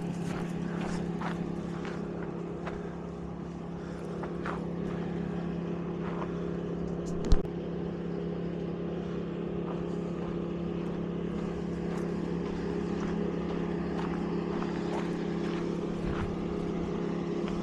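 Wood chipper's engine running steadily at a distance, an even drone at a fixed pitch. A single sharp knock sounds about seven seconds in.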